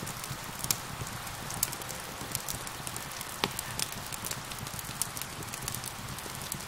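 Steady hiss of rain with a wood fire crackling over it in sharp, irregular pops. One stronger pop comes a little past halfway.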